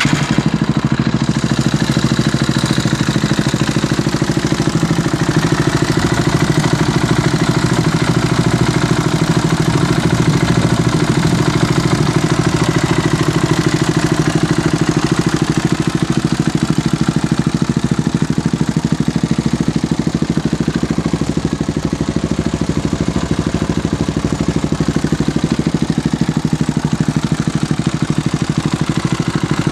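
KTM 690 SMR's single-cylinder LC4 four-stroke engine idling steadily through a complete Huzar aftermarket exhaust system, just after being started.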